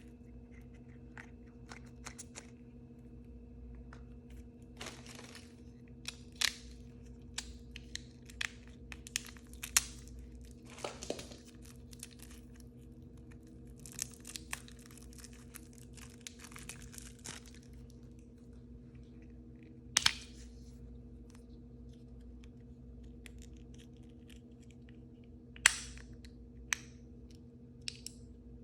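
Plastic and foil packaging crinkling, rustling and tearing as small blind-bag toys are unwrapped by hand, with scattered sharp clicks and snaps; the loudest come about twenty seconds in and again near the end.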